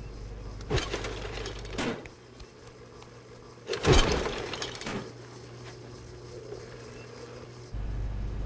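Machinery making a few sharp metallic clanks, the loudest about four seconds in, over a low steady hum that drops away in the middle and returns near the end.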